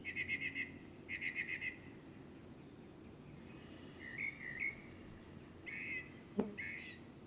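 Faint birdsong from a nature-sound background track: two quick trills in the first two seconds, then a few short chirps. A single sharp click comes about six seconds in.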